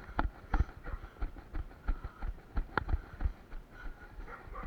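Footsteps of a runner on a trail, heard as irregular thuds and knocks, several of them sharp, without a steady rhythm.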